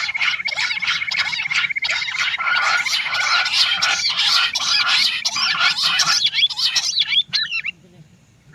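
Quail calling over and over in a dense, rapid run of sharp notes, with a steady high tone underneath; the calling stops abruptly about a second before the end.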